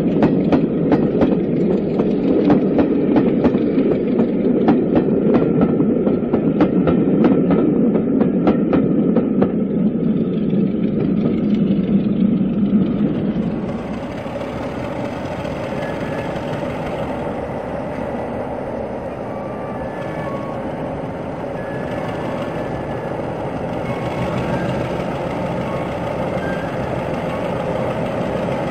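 A train running past, its wheels clicking regularly over rail joints. About halfway through the sound changes to a quieter, steady diesel locomotive engine running.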